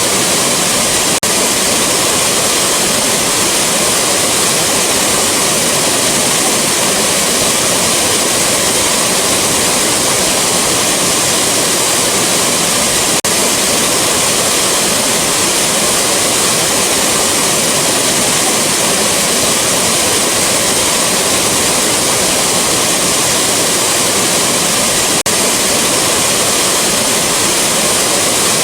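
Waterfall rushing: a loud, steady, even hiss of falling water with no let-up.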